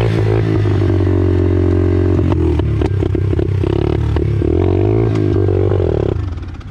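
Pit bike engine running hard on the track, its pitch rising and falling with the throttle, with some clattering. The sound dies away about six seconds in.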